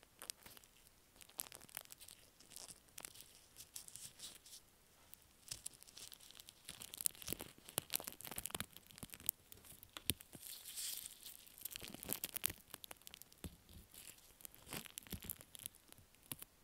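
Slime being squished and stretched right against an earphone microphone: a dense, irregular run of sticky crackling clicks and pops.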